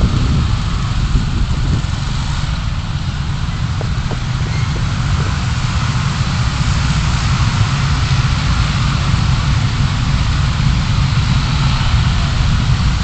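A car being driven: a steady low engine and road rumble with an even tyre hiss above it.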